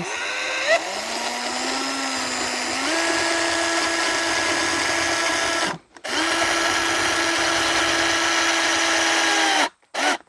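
Power drill driving screws, its motor whining in two long runs with a brief stop about six seconds in. The pitch rises as the first run starts and steps up once about three seconds in.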